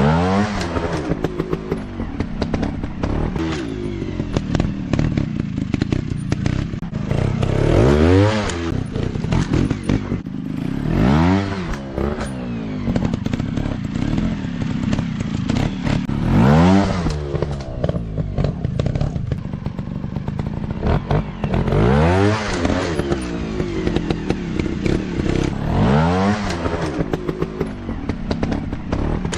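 Dirt bike engine running, revving up and dropping back again and again, roughly every four to five seconds, with a rattle of clicks in between.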